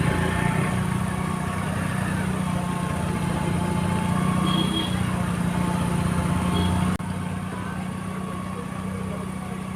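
Motorcycle engine running steadily while the bike is ridden, with a sudden drop in level about seven seconds in.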